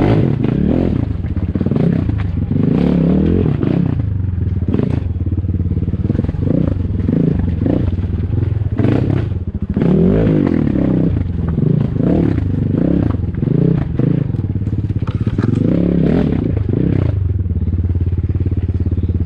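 Off-road enduro motorcycle engine running on a trail, revving up and falling back over and over, with some clatter.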